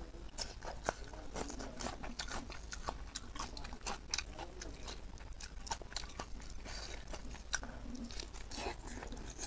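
A man eating cooked pork leg with his hands: wet chewing and biting, with a steady run of sticky mouth clicks and smacks.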